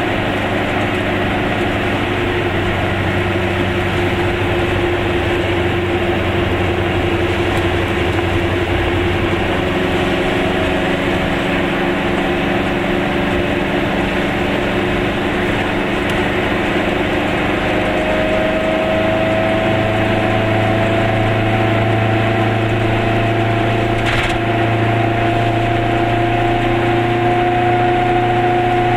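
Goggomobil's small two-stroke twin engine running steadily as the car drives along, its note rising slowly over the last ten seconds, over a steady hiss of tyres on the wet road.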